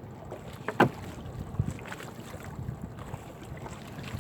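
Wind on the microphone over a small fishing boat while a crab gill net is hauled aboard, with one sharp knock about a second in and a few lighter clicks after it.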